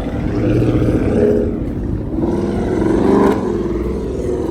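Car engine revving, climbing to a peak about three seconds in and then dropping back.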